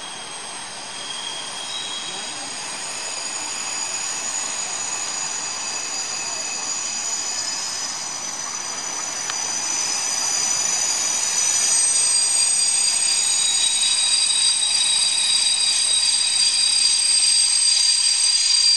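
SBB Ae 6/6 Co'Co' electric locomotive and its coaches rolling slowly into the station under braking, with a high, steady multi-tone squeal of wheels and brakes on the rails. The squeal grows louder and stops suddenly near the end as the train comes to a halt.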